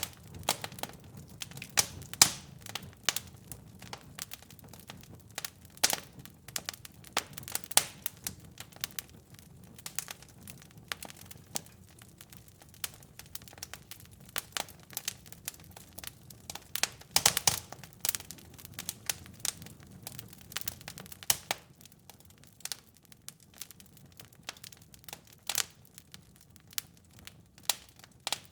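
Wood fire burning in a fireplace, crackling and popping with irregular sharp snaps over a soft low rumble of the flames.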